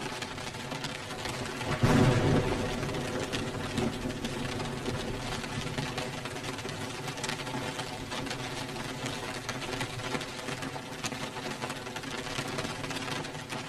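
Steady rain recorded as white noise for sleep, with a sudden louder low swell about two seconds in that fades over a few seconds.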